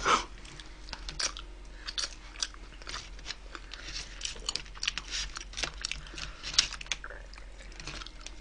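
Close-up chewing and crunching of wood-fired roast chicken: irregular crisp clicks and smacks of someone eating.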